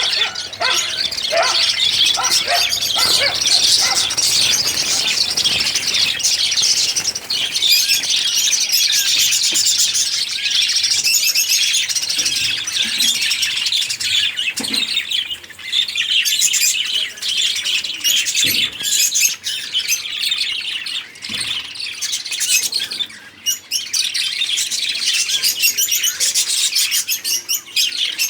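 A mixed flock of lovebirds and budgerigars chattering and chirping together in an aviary, a dense, continuous mass of high-pitched calls.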